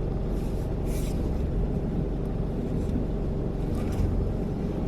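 Steady low rumble of a car moving slowly with its engine running, heard from inside the cabin.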